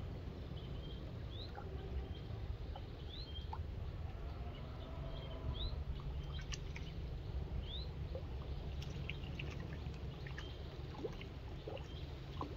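Small bird peeping: short, high, rising chirps, a few every couple of seconds, over a steady low rumble.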